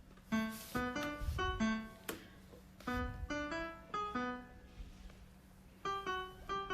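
Piano music: a simple melody of separate notes, with a short pause about two-thirds of the way in.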